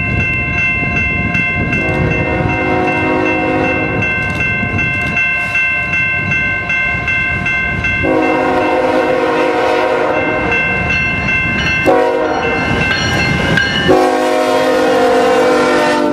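Freight locomotive horn sounding the grade-crossing signal as the train approaches: two long blasts, a short one, then a long one that is still going at the end. A steady high ringing and the rumble of the train run underneath.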